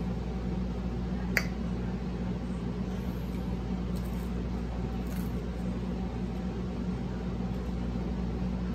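Steady low hum with faint chewing of fried fish, and one sharp click about a second and a half in.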